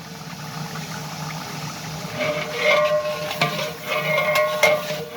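Metal ladle scraping and clanking against a large metal cooking pot (deg) while stirring. From about two seconds in come repeated knocks, each ringing at the same few pitches, over a steady hiss.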